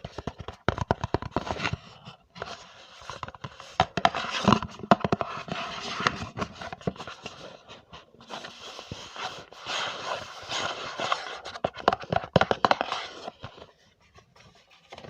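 Close-miked ASMR trigger sounds: dense scratching and crackling with many quick clicks, dipping briefly about two and eight seconds in and dying down near the end.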